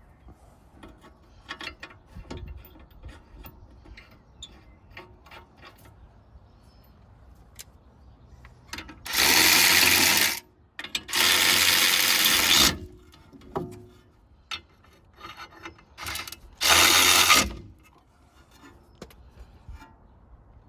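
Hand tools clicking and ratcheting on a brake caliper while the piston is wound back, then three loud bursts of hiss, each lasting a second or more.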